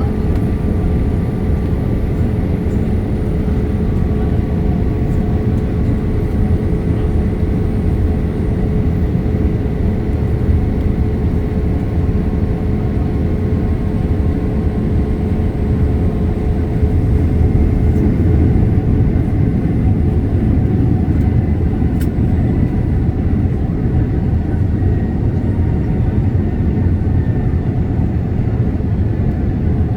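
Steady cabin noise of a Boeing 787 airliner in flight: an even rush of airflow and engine drone, with a faint steady hum running through it.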